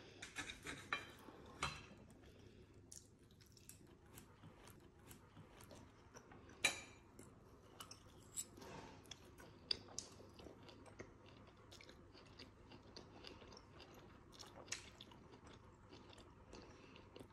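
A person chewing food quietly, with a few sharp clicks of a metal knife and fork against a ceramic plate.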